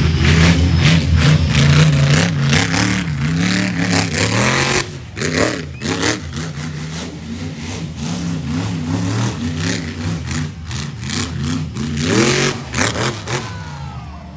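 A vehicle engine revving up and down over and over, loudest at first and easing off about five seconds in, with another burst of revs near the end.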